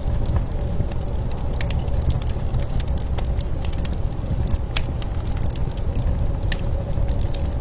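Wood fire crackling with scattered sharp pops and ticks, over a steady low rumble of blizzard wind.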